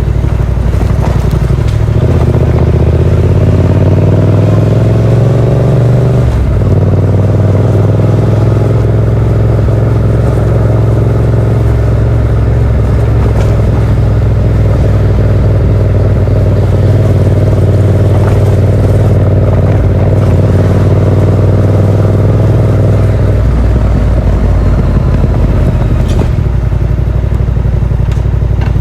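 Yamaha MT-07's parallel-twin engine breathing through a Yoshimura R77 exhaust with its dB killer fitted. It rises in pitch under acceleration about two seconds in, holds a fairly steady pitch at cruise, then falls as the throttle is rolled off near the end.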